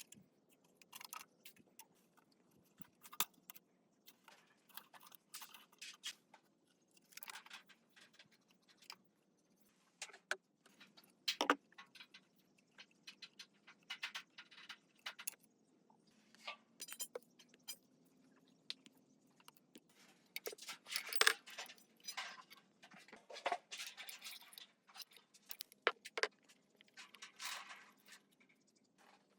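Irregular metallic clinks, taps and short scrapes from small metal parts and hand tools being handled and worked on.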